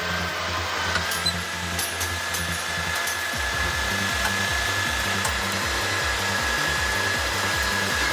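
A motor running at a steady speed, giving a steady high whine, with a low pulsing beat underneath.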